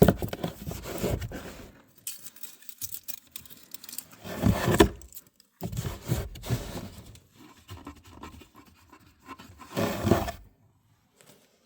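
Hands working in a plastic cabin air filter housing, with irregular scraping, rustling and clicking in short bursts; the loudest are near the start, about four and a half seconds in and about ten seconds in.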